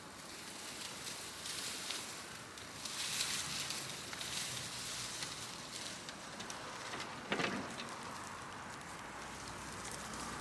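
Large brush and wood bonfire burning with a steady hissing crackle and scattered small pops. There is one louder snap about seven seconds in.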